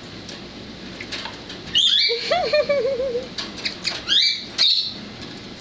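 A budgie bathing in a water bowl, beating its wings and splashing, in loud bursts about two seconds in and again about four seconds in.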